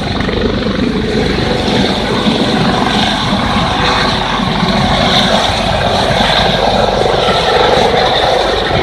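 Police helicopter running loud and close: a steady din of engine and rotor with a fast, even chop, and a tone in it that slowly drops in pitch through the middle.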